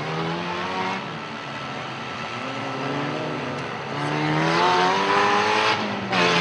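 Demolition derby car engines revving as they race, their pitch climbing and dropping, getting louder about two-thirds of the way in.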